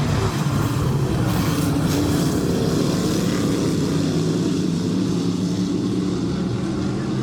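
Dirt-track race cars circling the oval, their engines running steadily together.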